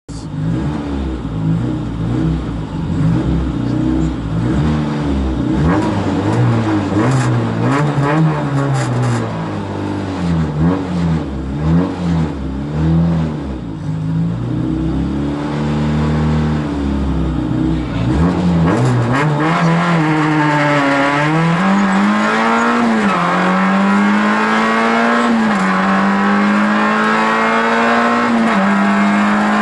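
Rally car engine heard from inside the cabin, blipped and held at wavering revs while waiting at the stage start. About two-thirds of the way in it launches and accelerates hard, the pitch climbing and dropping back at several upshifts.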